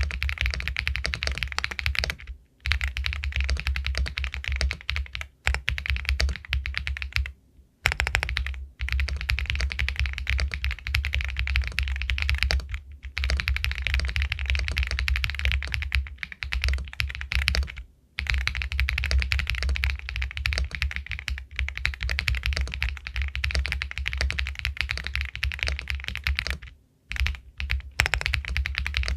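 Fast, continuous typing on an Epomaker Galaxy 80 Pro full-aluminium mechanical keyboard with White Jade linear switches: a dense run of keystroke clacks, likened to the sound of pebbles, broken by a few pauses of under a second.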